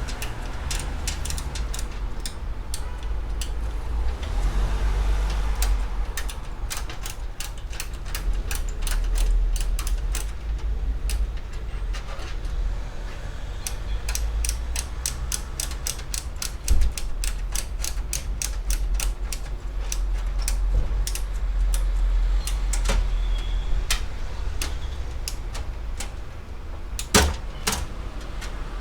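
Many small metallic clicks and ticks, some in quick runs, from hands and a screwdriver working a motherboard standoff and screws in a steel PC case, over a low handling rumble. There are two sharper knocks, one a little past the middle and one near the end.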